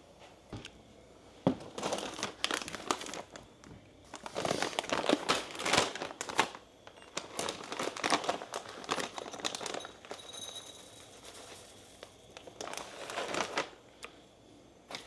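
Plastic packaging crinkling in several bursts of handling, the loudest run about five seconds in.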